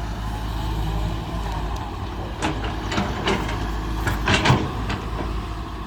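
Heavy diesel machinery running steadily, with a few sharp knocks and clanks around the middle.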